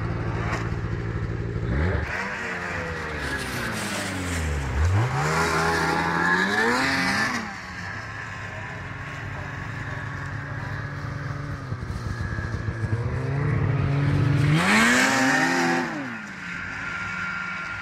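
Snowmobile engine running hard, its pitch dropping and climbing as the throttle is worked. Two louder stretches of revving come early and again near the end.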